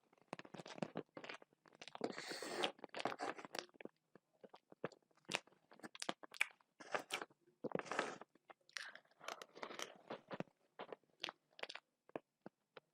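Close-miked chewing of soft red velvet cake with small chocolate chips: irregular wet smacks, clicks and crunches of the mouth, with a longer stretch of chewing noise about two seconds in.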